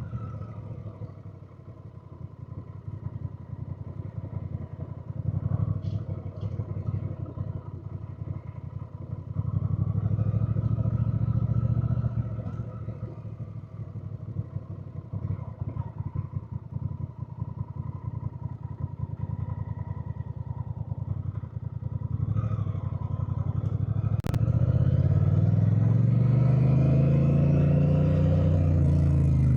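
Honda Rebel 1100's parallel-twin engine running under way, its note rising and falling with the throttle. About three-quarters of the way through, a sharp click comes just as it pulls harder under acceleration, and the engine stays loud to the end.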